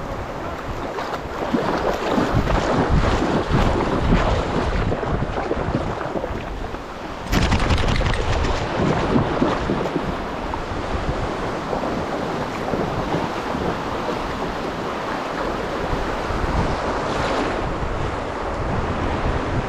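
Ocean surf washing on a beach, with wind buffeting the microphone. The sound jumps abruptly louder about seven seconds in.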